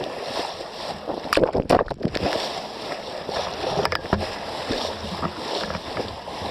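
Water rushing and sloshing against a small sailboat's hull while under way, with a few sharp knocks about a second and a half in and again near four seconds.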